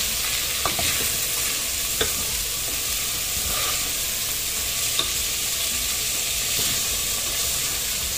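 Diced potato, carrot and green peas sizzling in hot oil and spices in an aluminium pressure cooker, stirred and scraped with a wooden spatula. The sizzle is a steady hiss, broken by a few light clicks of the spatula against the pot.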